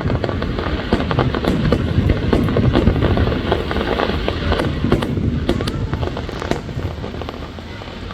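Fireworks display: a dense, rapid run of booms and crackling bursts over a low rumble, busiest a couple of seconds in and thinning toward the end.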